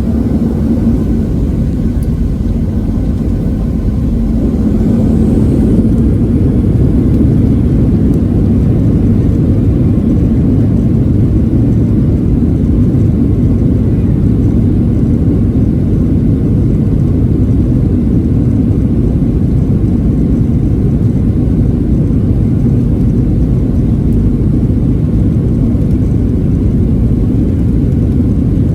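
Boeing 737-700 cabin noise: a steady, low rumble from the CFM56-7 engines and the airframe. It grows louder about four to six seconds in as thrust comes up for takeoff, then holds steady.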